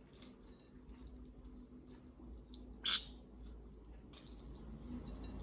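Faint small clicks and nibbling of a green-cheeked conure's beak working at a walnut, with one sharper crack about three seconds in.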